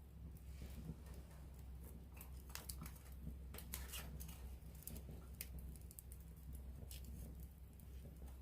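Wood campfire crackling, with scattered sharp pops and snaps, most of them between about two and a half and four seconds in, over a low steady rumble.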